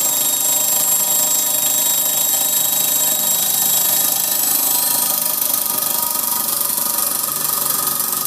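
Homemade model steam engine running, giving a loud, steady whine of several tones over a hiss; about five seconds in a high tone edges up and the lowest tones drop away.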